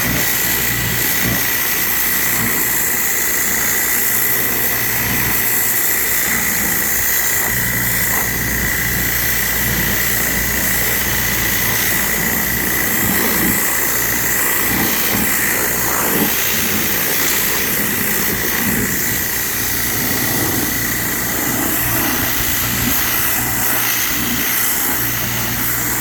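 Hotsy pressure washer running on cold water with its burner off: a steady machine drone and a steady high whine under the hiss of the water jet blasting dirt off concrete retaining-wall blocks.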